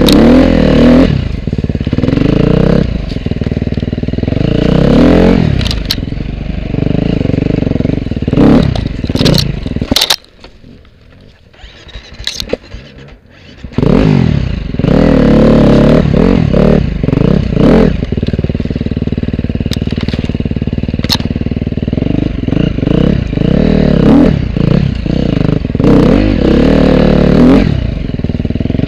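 Off-road dirt bike engine revving up and down as it is ridden, with scattered knocks and clatter. About ten seconds in the engine drops right down for some three and a half seconds, then picks up again.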